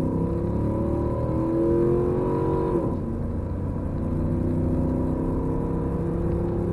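A 2003 Ram 2500's 5.7 HEMI V8 under full-throttle acceleration in a 0-60 run. The engine note climbs steadily, drops at an upshift about three seconds in, then climbs again through the next gear.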